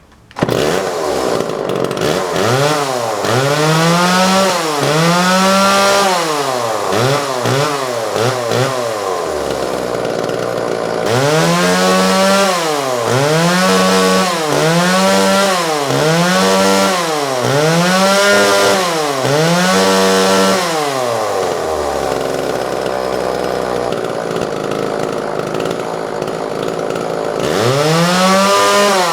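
Vintage Homelite XL two-stroke chainsaw running, its throttle blipped over and over so the engine revs up and drops back about every second and a half. It settles to a steady idle for several seconds near the end, then revs once more.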